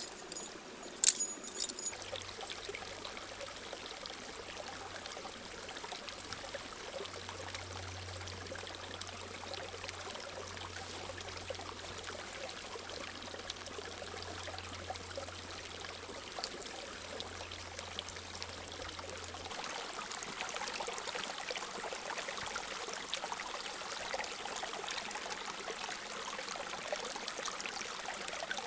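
Creek water running steadily, growing a little louder and brighter about two-thirds of the way through, with a sharp click about a second in.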